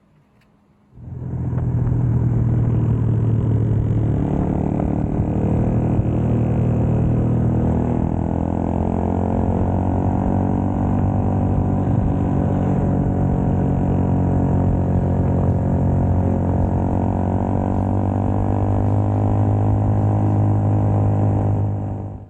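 Small four-stroke motorcycle engine running at a steady speed while riding. It starts abruptly about a second in and cuts off abruptly near the end.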